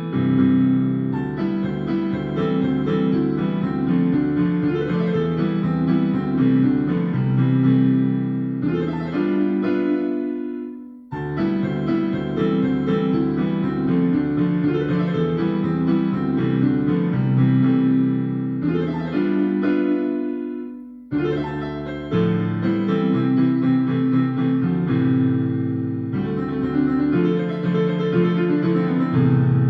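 Piano music played as chords and melody in three phrases, the first two ending in fading held chords before the next begins abruptly.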